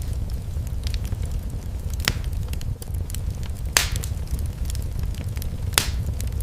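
Wood fire crackling in a fireplace over a steady low rumble, with small scattered snaps and three sharp louder pops about two, four and six seconds in.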